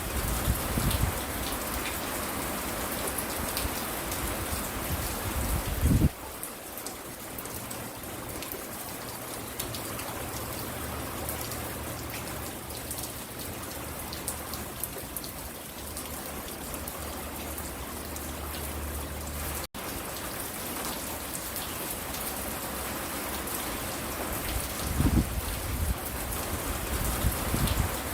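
Steady rain falling on a front porch, an even hiss of drops throughout. Brief low rumbles come near the start, about six seconds in and near the end, and the sound drops out for an instant about two-thirds of the way through.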